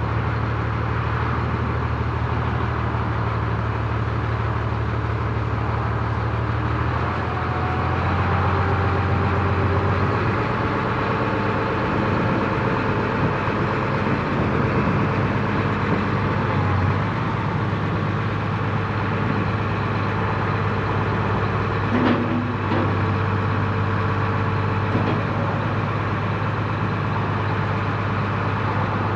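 Farm tractor engine running steadily, its speed stepping up slightly about seven seconds in. A brief sharp knock about 22 seconds in.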